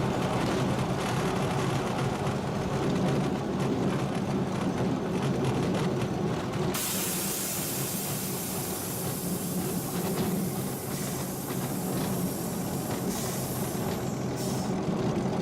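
Supermarine Spitfire Mark IX's Rolls-Royce Merlin V12 engine running steadily. About seven seconds in, a hiss joins the engine sound.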